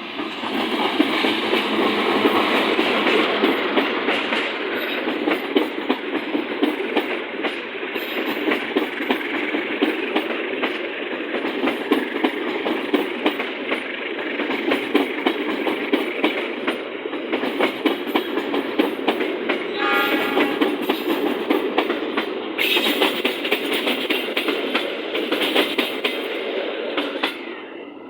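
Passenger train passing close by, a long loud rush of wheels on rail with rapid clicking over the rail joints, starting abruptly and dying away near the end. A brief pitched tone sounds about twenty seconds in.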